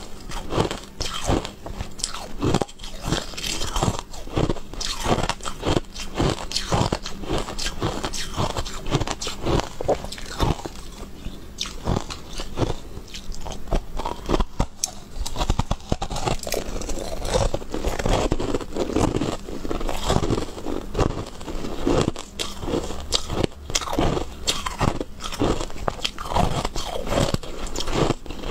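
A person biting and chewing hard white balls of food close to a clip-on microphone: a dense, irregular run of crunches with no break.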